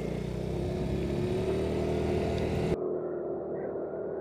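Motorcycle engine running under way with wind and road noise, its pitch rising slowly as it picks up speed. About three seconds in, the sound abruptly turns duller and more muffled, like a cut to a different recording.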